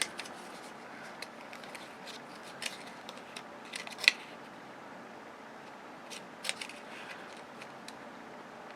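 Scattered light clicks and small handling noises as a gold-tipped cable and its connector are turned over in the hand, over a faint steady room hum.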